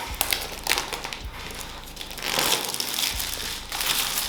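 Crinkling and rustling of a smartphone's packaging being handled and opened, with a few sharp clicks and one longer rustle in the middle.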